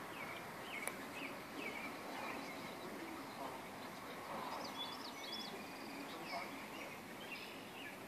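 Scattered short bird chirps over a steady outdoor background hiss, with a quick run of chirps about halfway through and a single sharp click just under a second in.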